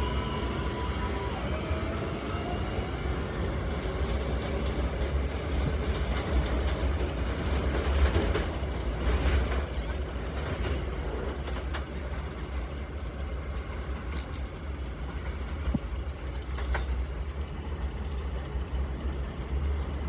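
New York City subway train running through a station: a low steady rumble, with the electric motors' whine shifting in pitch in the first few seconds. Wheels clatter over the rails with scattered clacks midway and again near the end.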